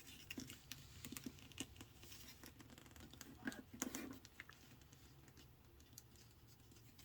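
Faint, scattered taps and rustles of a sheet of printer paper being turned and folded by hand, with fingers pressing the folds down.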